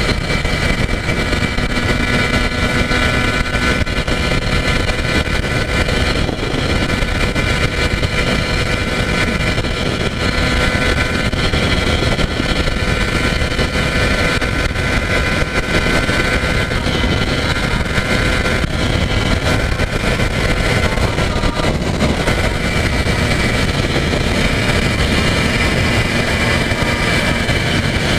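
Yamaha TZR250 1KT's two-stroke parallel-twin engine running at a steady speed, with heavy wind rush on the microphone.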